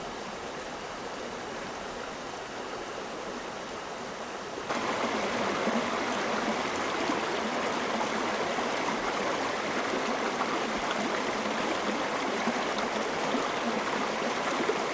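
Stream water flowing steadily. About five seconds in it switches abruptly to a louder, fuller rush of water.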